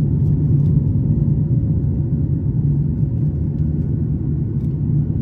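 Steady low drone of a Boeing 737 passenger cabin in flight: engine and airflow noise, with a few faint ticks and no distinct bang.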